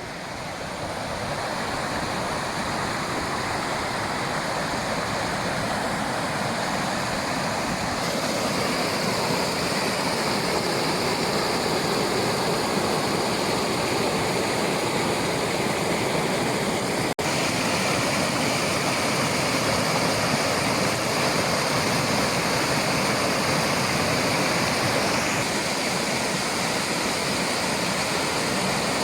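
Waterfall: a steady rush of falling water that swells over the first couple of seconds, then holds even, with a momentary break about halfway through.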